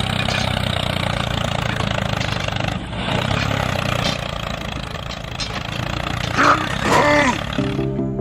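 An engine running steadily with broad mechanical noise. Near the end come a few brief sliding pitched sounds, then background music comes in.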